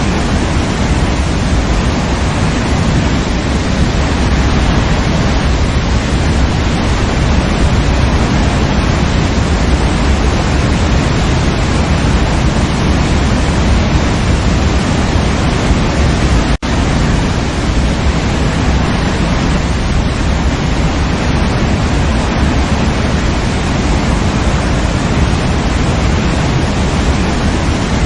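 Waterfall: falling water rushing steadily, a dense full hiss with a heavy low rumble, broken once by a split-second gap about two-thirds of the way through.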